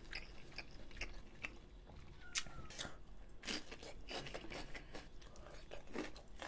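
A person chewing and crunching mouthfuls of food, with several sharp crunchy bites in the second half as a raw green chili pepper is bitten into.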